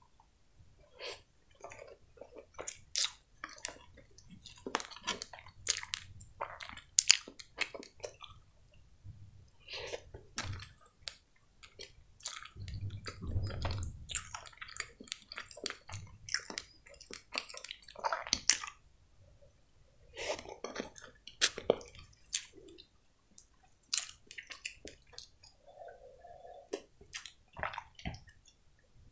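Close-miked chewing of a soft sponge cupcake topped with whipped cream: wet mouth clicks, smacks and squishes come in irregular runs, without speech.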